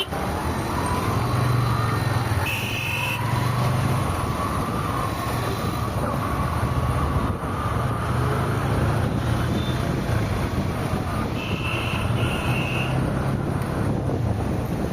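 Steady road and engine noise of a car driving in traffic, with a faint whine rising in pitch in the first couple of seconds. A vehicle horn toots once briefly about two and a half seconds in, and twice in quick succession about twelve seconds in.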